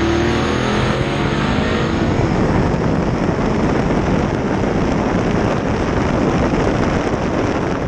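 Drag race cars launching at wide-open throttle and running down the track, the engine pitch climbing at the launch before turning into a loud, dense blare of exhaust. The sound cuts off abruptly at the end.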